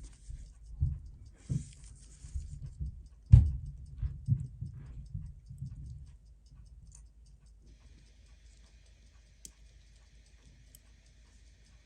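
Low knocks and small sharp clicks of tweezers and small tools handling parts on a watchmaker's bench, during the strip-down of a Seiko 6138 chronograph movement. The handling is busiest in the first half, with one louder knock about three seconds in, then it goes quiet with only a few faint clicks.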